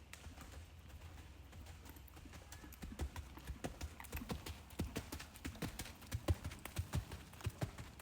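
Horse's hooves clip-clopping in a steady rhythm, about three hoofbeats a second, growing distinct about three seconds in, over a low steady rumble.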